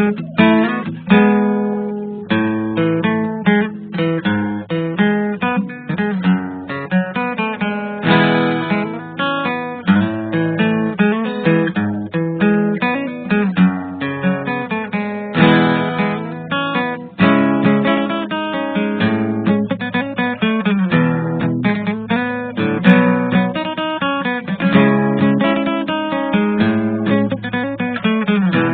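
Background music: acoustic guitar, plucked and strummed in a quick, steady rhythm.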